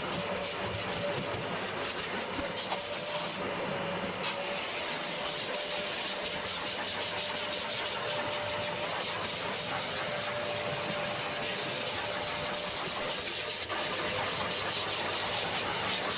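A motor-driven machine running steadily: a constant whine over an even rushing hiss.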